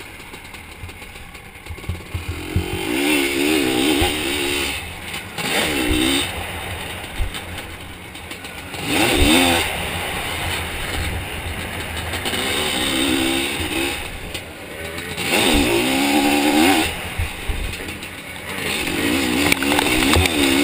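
Zabel 700 two-stroke sidecar motocross engine revving in about six bursts of throttle, its pitch wavering up and down within each burst and dropping back between them, with scattered low thumps.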